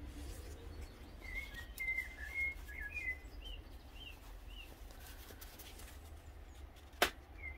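A small bird chirping, a quick string of short rising-and-falling chirps in the first half, over a steady low hum. A single sharp click near the end is the loudest sound.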